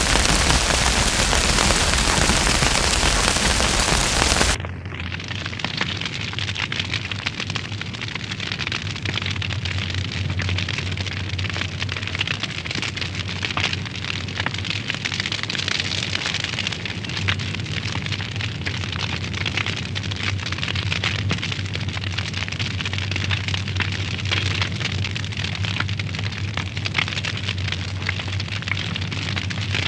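Wood fire burning in a fireplace, crackling with many small pops. For the first four and a half seconds a loud, even hiss covers it, cutting off abruptly.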